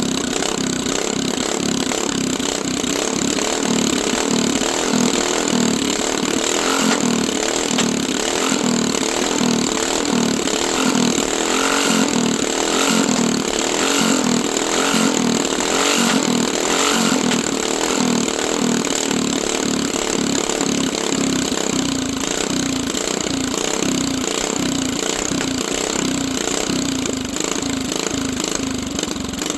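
Mini bike's small engine running continuously, its speed wavering unevenly rather than holding a steady idle.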